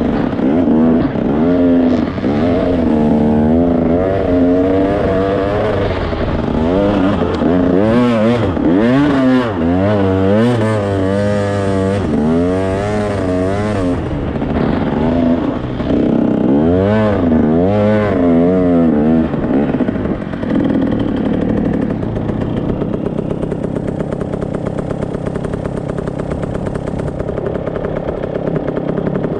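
Dirt bike engine running hard, its pitch rising and falling over and over as the throttle is opened and closed, then holding steadier for the last third.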